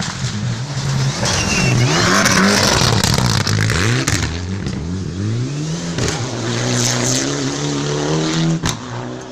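Rally car engine revving hard under acceleration, its pitch climbing and dropping back over and over through gear changes, then holding a longer, steadier climb.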